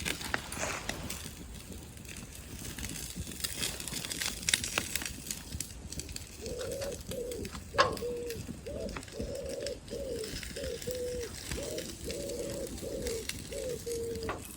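Wood campfire crackling with scattered pops. From about six seconds in, a pigeon coos in a long run of repeated low notes falling into short phrases, with one louder pop from the fire partway through.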